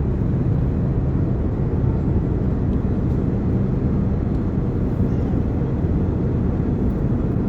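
Steady low rumble of an Airbus A330-900neo heard from inside the passenger cabin: engine and airflow noise at an even level with a low hum underneath.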